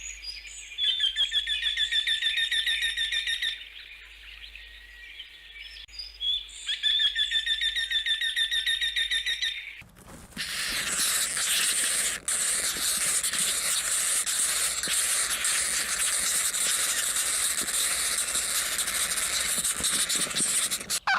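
A bird sings two long, fast trills of repeated high notes a few seconds apart. About ten seconds in, a steady, loud high hiss takes over.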